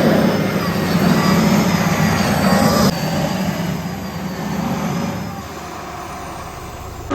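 A loud engine of a pulling machine running hard. The sound drops abruptly about three seconds in and sinks lower again near the end.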